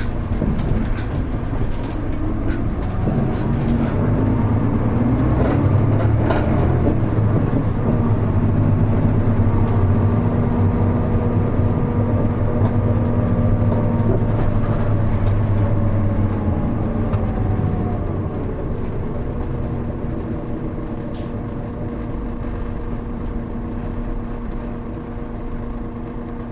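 Hino Rainbow HR low-floor bus's diesel engine heard from inside the cabin, pulling strongly while the bus gets under way and cruises, then easing off about two-thirds of the way through to a quieter steady hum as the throttle is lifted. A few light clicks and rattles in the first seconds.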